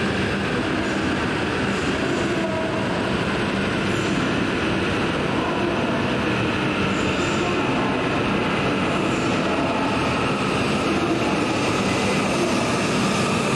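E5-series Shinkansen train moving along the platform: a steady rolling rumble with a faint steady whine over it.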